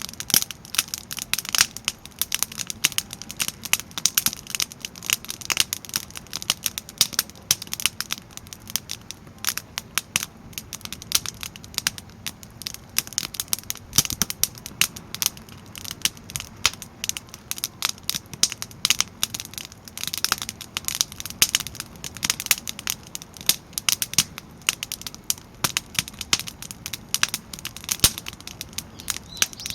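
Split firewood crackling as it burns in a crisscross (igeta) stack: many irregular pops and snaps, close together, over a low steady rumble.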